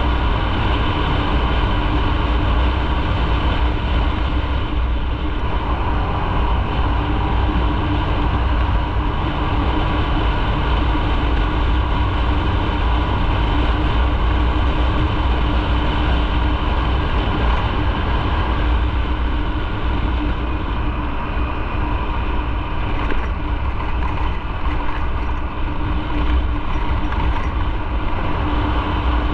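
Motorcycle running at a steady cruise, its engine note holding one steady pitch under a constant rush of noise from the ride.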